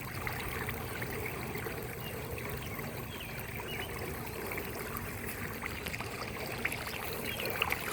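Floodwater on a road running steadily into a storm drain grate clogged with debris, swirling down in a whirlpool.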